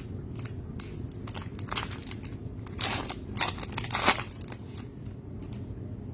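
Trading card packs and cards being handled: a run of short crinkles and crackles from plastic pack wrappers and card stock, bunched in the middle and loudest about four seconds in.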